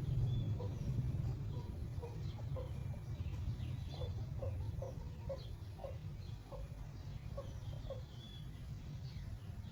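Chickens clucking in a run of short, repeated notes, thickest in the middle of the stretch, with faint higher chirps and a steady low rumble underneath.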